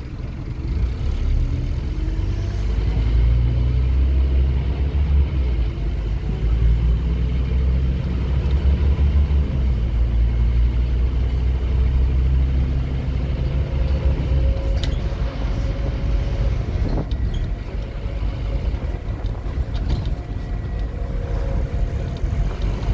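Scania N230UD OmniCity double-deck bus's five-cylinder diesel engine pulling hard under acceleration, its pitch rising repeatedly, then easing off about two-thirds of the way through. A few sharp knocks or rattles follow near the end.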